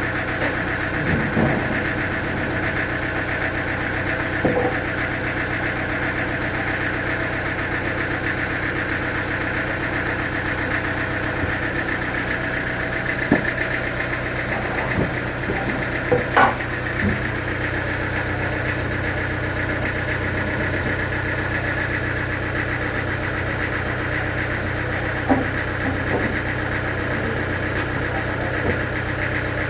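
Engine running steadily at an even speed, with a few short knocks and clunks, a cluster of them about halfway through.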